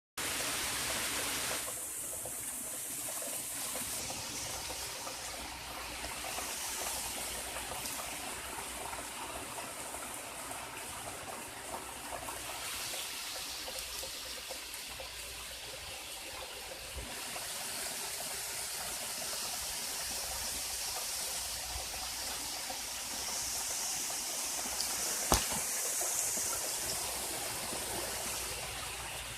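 Steady rush of running water from heavy rain and flooding, with a single sharp click a few seconds before the end.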